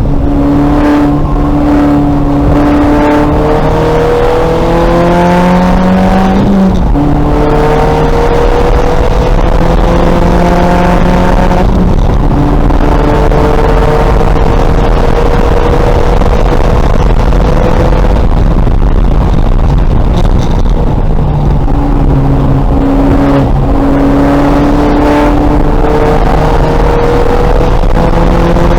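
2000 VW Golf race car's engine heard from on board, pulling hard with its pitch climbing and dropping sharply at upshifts about 7 and 12 seconds in. It eases off a little past halfway, then pulls again, over a steady rush of road and wind noise.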